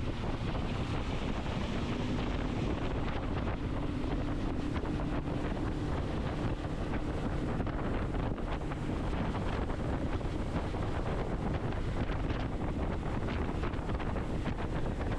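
Steady wind buffeting the microphone on a boat out on the lake, with a faint steady hum from about two seconds in to about seven seconds in.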